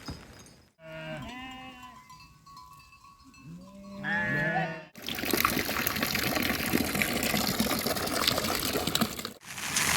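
Livestock bleating in two short calls in the first half. From about five seconds in comes a louder, steady rushing hiss that stops abruptly near the end.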